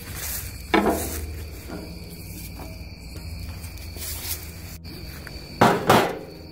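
Cast iron Dutch oven lid scraped and knocked against a metal charcoal grill as hot coals are dumped off it, with a sharp metallic clank about a second in and two more close together near the end. A steady high insect trill runs underneath.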